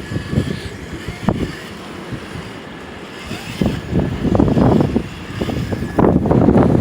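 Wind buffeting the microphone in uneven gusts, heaviest in the second half, with a faint steady high whine underneath.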